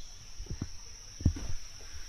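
Insects droning on one steady high-pitched note, with a few soft low thumps.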